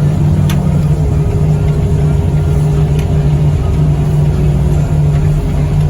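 Vehicle engine running steadily with a low drone, heard from inside the cab while driving, with a faint steady whine in the middle.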